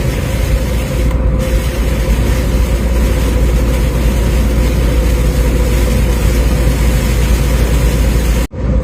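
Steady engine drone and road noise inside a moving vehicle's cab at highway speed, with a constant whine running through it. The sound cuts out briefly near the end.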